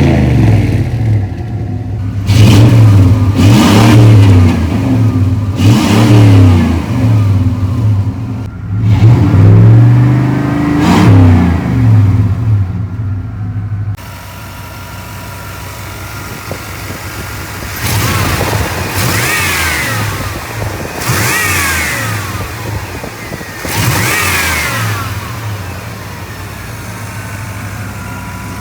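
Chevy Z71 pickup's engine, through a Flowmaster exhaust, accelerating hard, its pitch climbing and dropping back at each gear change. About halfway it turns quieter, with three more climbs a few seconds apart.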